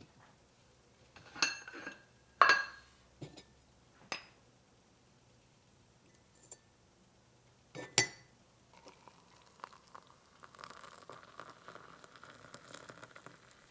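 Glassware and dishes clinking: several sharp clinks, each with a short ring, the loudest about two and a half and eight seconds in, then a faint light clatter in the last few seconds.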